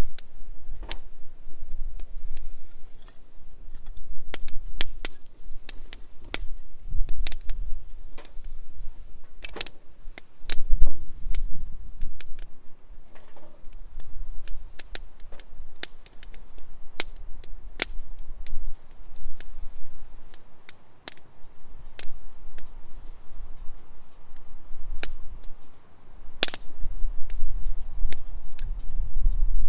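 Wood campfire crackling, with sharp pops at irregular intervals over a low rumble.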